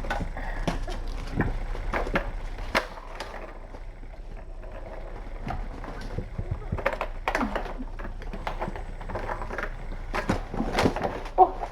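Kittens playing on a hard floor: irregular clicks, knocks and clatter over a steady low hum.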